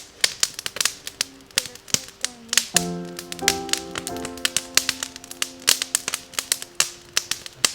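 Wood campfire crackling, with many sharp, irregular snaps and pops. Background music with held chords comes in about three seconds in.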